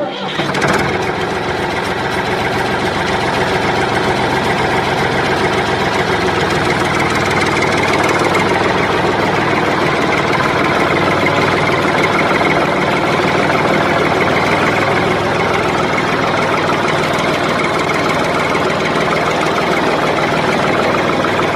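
A motor or engine running steadily at an even idle-like pace, starting abruptly at the very beginning and holding the same note throughout.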